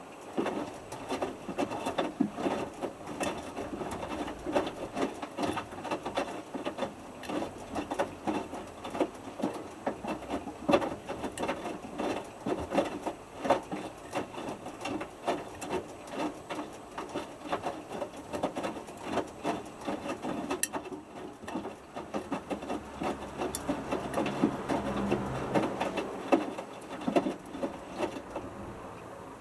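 Hotpoint Futura HF8B593 washing machine drum tumbling a small load of t-shirts in wash water during the main wash: steady irregular slapping and sloshing with small knocks, plus a brief low motor hum about three-quarters of the way through. It starts and stops with the tumble.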